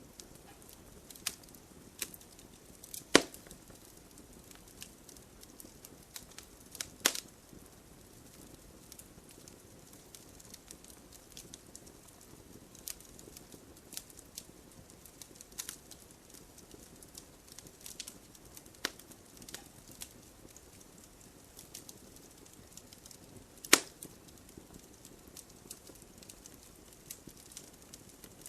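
Open wood fire crackling: scattered small ticks and snaps over a faint hiss, with three sharp, louder pops spread through it.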